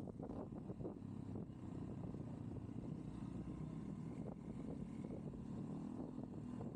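Motorcycle engine running at a steady pitch while riding, with wind buffeting and road rumble on the microphone.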